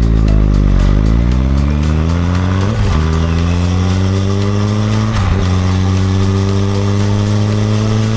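Suzuki GSX-R1000R inline-four engine running under way: the engine note falls briefly as the bike slows, then climbs as it accelerates, with quick upshifts about three seconds in, about five seconds in and near the end.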